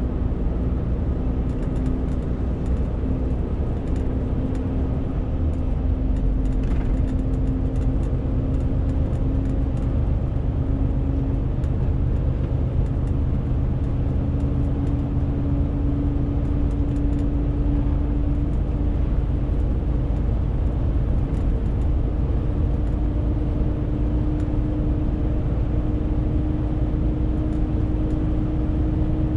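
Renault T520 truck's diesel engine running while hauling a 40-tonne load: a steady low rumble with an engine note that climbs slowly in pitch over the second half.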